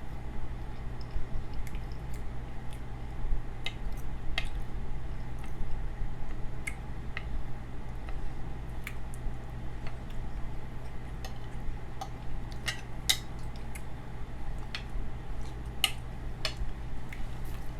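Eating sounds: cutlery clicking and tapping against a plate in scattered sharp clicks, over a steady low hum.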